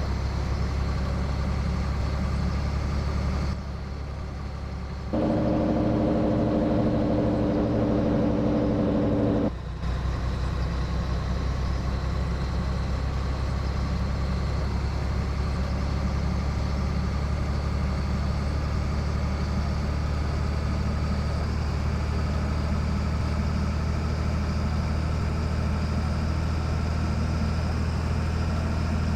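Scania 113 truck's six-cylinder diesel running under way. About three and a half seconds in the sound drops off briefly, then a louder droning tone holds for about four seconds before the engine settles back into steady running, its pitch rising slowly as it picks up speed.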